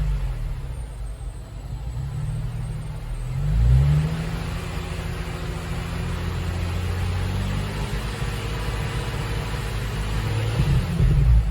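Nissan Z33 Fairlady Z's freshly overhauled VQ35DE V6 running at idle, its revs briefly raised and falling back twice, about four seconds in and again near the end.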